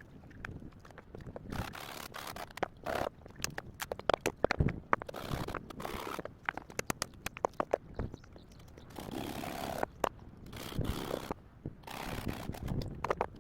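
Irregular knocks, clicks and scraping, the sound of objects being handled and moved about, with several denser patches of scraping.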